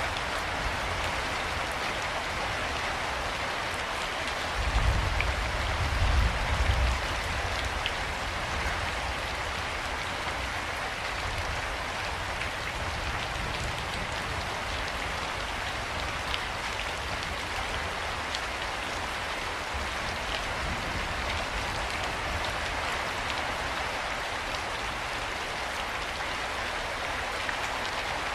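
Steady rain falling, an even hiss with scattered drops ticking. About five seconds in, a low rumble swells for a couple of seconds and then settles back.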